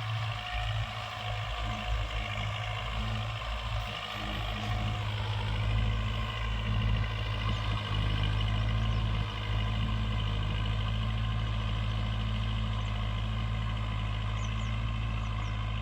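Kubota tractor's diesel engine running; its tone changes about five seconds in, then it runs steadily.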